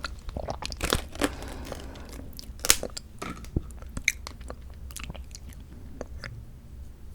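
Close-miked chewing and biting of mandarin orange segments from a fruit cup: wet mouth sounds and sharp clicks, densest in the first three seconds and sparser afterwards.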